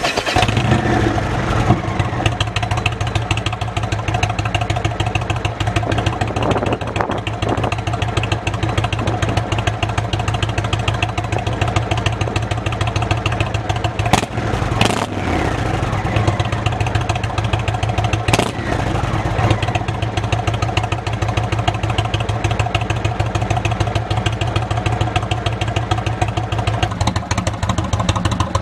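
Indian motorcycle V-twin breathing through Freedom Performance Shark Tail slip-on mufflers on stock headers, catching right at the start and then idling, with a few short blips of the throttle partway through.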